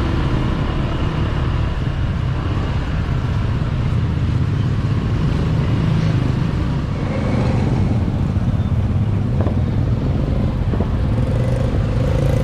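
Motorbike taxi's small engine running steadily while riding, heard from the pillion seat, with a constant low rumble of wind and road noise and surrounding traffic.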